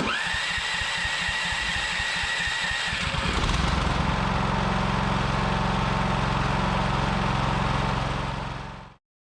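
420cc single-cylinder small engine turned over by its electric starter, a steady whine over a rapid even chugging for about three seconds. It then catches and runs at a steady speed until it cuts off suddenly near the end.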